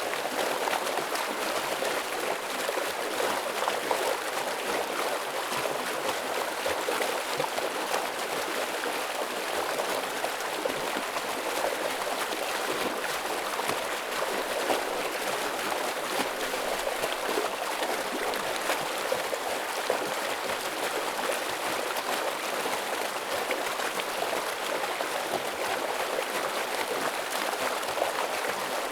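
Forest stream flowing steadily over rocks, a continuous rushing of water with fine bubbling.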